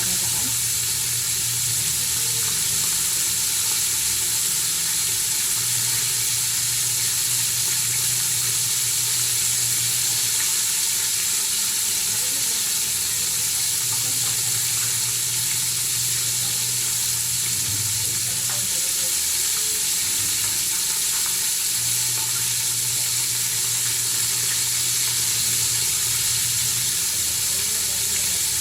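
Chicken deep-frying in hot oil, a steady, even sizzle with no pauses.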